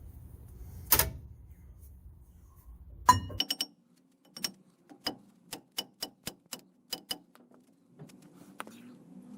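Metal hammer blows on the Ram pickup's rear brake and axle hub: one sharp strike about a second in and a louder burst of strikes around three seconds. These are followed by a run of about a dozen light, sharp clicks a quarter to half a second apart.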